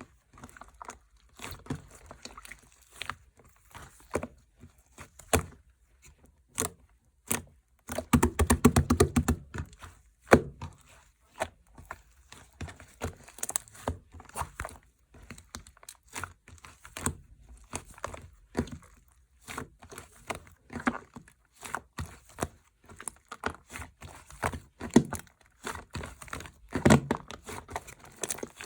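Hands squishing and stretching slime: irregular sticky clicks and air-bubble pops, with a dense run of crackling about eight seconds in.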